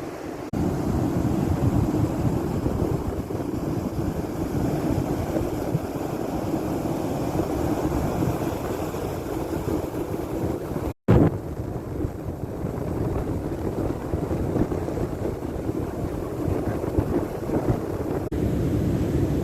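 Strong wind buffeting the microphone in a continuous low rumble, with surf on the beach underneath. The sound cuts out completely for a split second about eleven seconds in.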